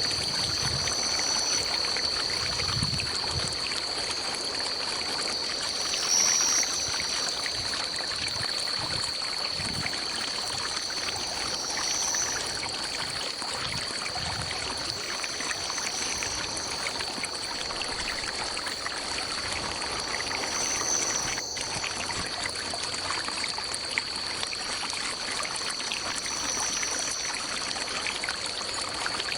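A small forest stream flowing steadily, with a continuous high-pitched drone over it and a short, higher call repeating every few seconds.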